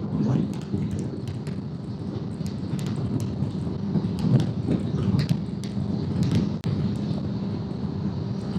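Motorcycle riding along at a steady pace: the engine's steady note runs under the rush of wind and road noise, with scattered short clicks and one brief drop in loudness about two-thirds of the way through.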